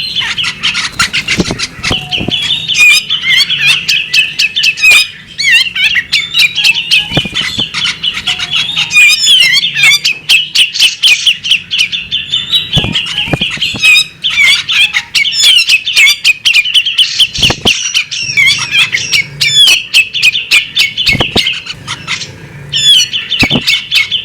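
Female magpie robin singing a loud, fast, nearly continuous chattering song of rapid notes mixed with sharp clicks. It breaks off briefly three times.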